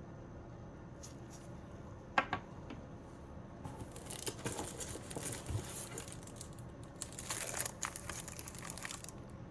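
Product packaging being handled and opened: a sharp click about two seconds in, then two spells of crinkling and tearing.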